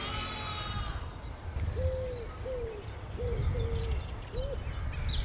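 Wood pigeon cooing a five-note phrase of short, soft, low notes, over low wind rumble.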